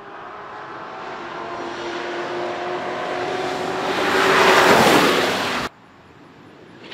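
2015 Corvette Z06's supercharged 6.2-litre V8 at speed on a race track, its steady engine note growing louder as the car approaches and loudest as it passes close by about four and a half seconds in. The sound cuts off suddenly near six seconds.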